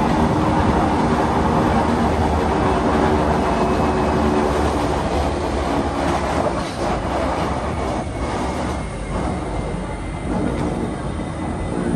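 Electric rack-railway train of the Wengernalpbahn running, heard from an open carriage window: a steady rumble of wheels on the track with a whine from the drive that eases a little about two-thirds of the way through.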